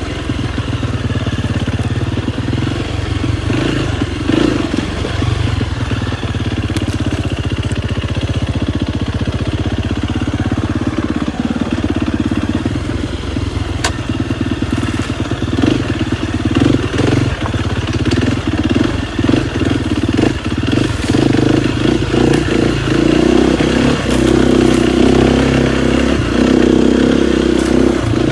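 KTM 250 XCF-W dirt bike's single-cylinder four-stroke engine running under a rider, its note rising and falling with the throttle, with short knocks from the middle onwards and slightly louder running near the end.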